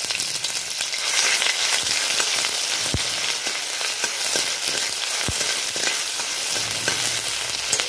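Ginger-garlic paste and cumin seeds sizzling in hot oil in a wok while a steel ladle stirs them: a steady frying hiss, with two sharp clicks about three and five seconds in.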